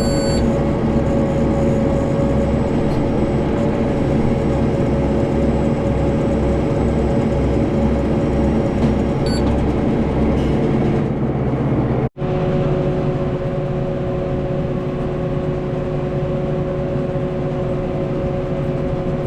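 Farm tractor engine running steadily under load, with a pulsing low rumble for the first twelve seconds or so. It cuts off suddenly and resumes at once with a steadier, different-pitched engine note.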